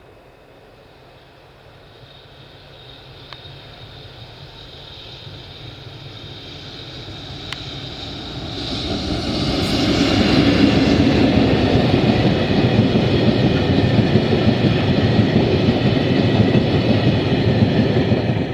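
Freight train approaching and passing on the rails, growing steadily louder with running noise and a few steady high tones, then cutting off abruptly near the end.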